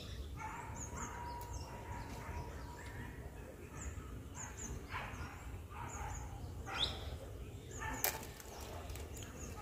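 Small birds chirping in short, high, repeated calls, over rustling and a low rumble of wind or handling on the microphone, with two sharp snaps near the end.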